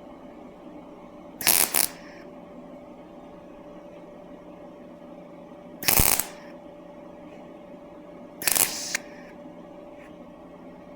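Three short crackling bursts of MIG tack welding on sheet steel, each about half a second long, over a steady hum.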